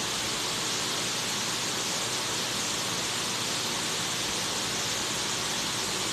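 Steady, even hiss with nothing else over it; the constant background noise of the recording.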